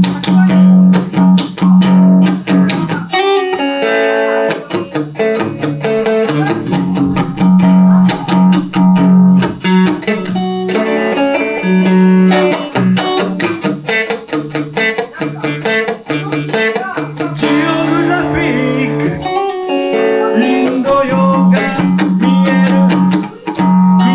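Van Zandt Telecaster electric guitar played through a Roland JC-120 amp: an instrumental passage of picked notes over a recurring sustained low note, with no singing.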